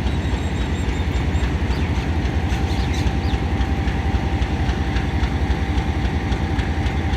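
Passenger train hauled by a GEU40 diesel-electric locomotive, making a steady heavy rumble with a faint steady high whine running through it.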